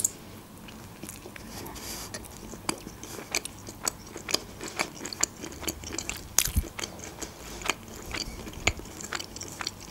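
Close-miked chewing of a lettuce-wrapped çiğ köfte (spicy bulgur 'raw meatballs'), with irregular crisp crunches and wet mouth clicks, several a second.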